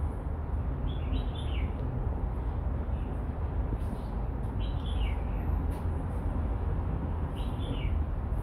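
A bird calling three times, each a short chirpy phrase falling in pitch, about three seconds apart, over a steady low background rumble.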